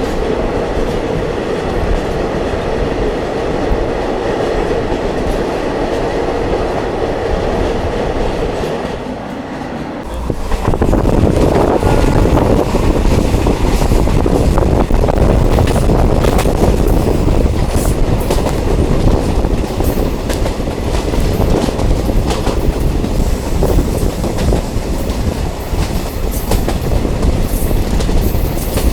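Diesel multiple unit train running, heard from on board, with wheels clicking over the rail joints. About ten seconds in, the sound suddenly gets louder and rougher and stays that way.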